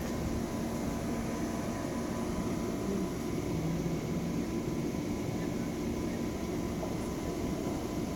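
Steady low drone of an Amtrak passenger train standing at the platform, with a faint steady hum over it and no sudden sounds.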